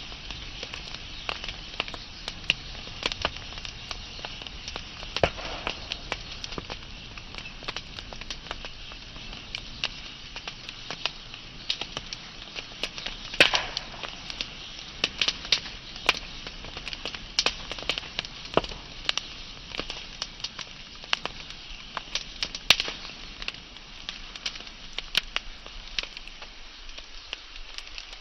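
Wood fire burning steadily with a soft hiss and frequent sharp crackles and pops, a few of them louder.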